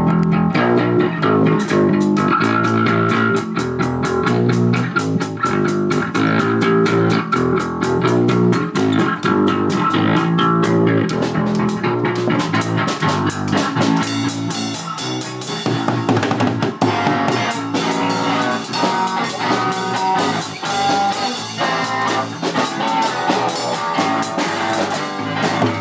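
Rock music with guitars, bass guitar and a drum kit playing steadily.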